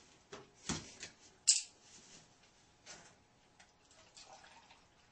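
Handling noises in a small room: a few separate knocks and clicks, the sharpest and loudest click about a second and a half in.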